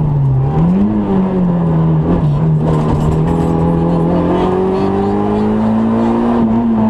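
Citroën Saxo N2 rally car's 1.6-litre four-cylinder engine, heard from inside the cabin, working hard on a rally stage. The revs dip and rise near the start, drop briefly about two seconds in, then climb slowly and ease off at the end.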